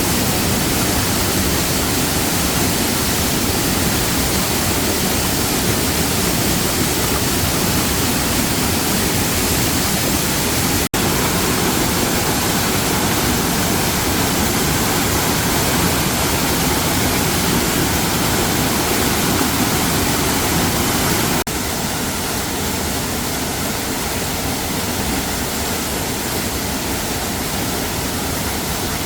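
Waterfall rushing steadily, a dense even wash of falling water. It breaks off for an instant about eleven seconds in and runs a little quieter from about two-thirds of the way through.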